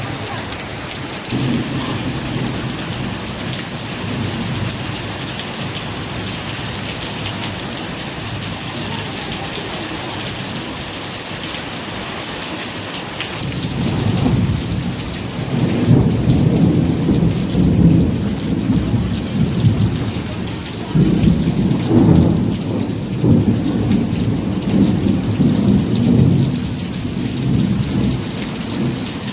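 Steady rain. Long low rumbles of thunder roll in about halfway through and come in two long waves.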